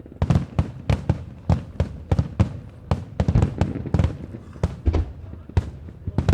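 Fireworks display: a rapid, irregular string of sharp bangs from bursting shells, about three a second, each followed by a short echo.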